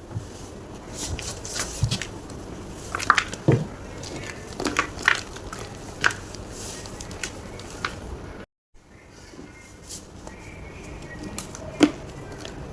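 Irregular crunches and crackles of gym chalk being crushed, with a brief dropout to silence a little past the middle.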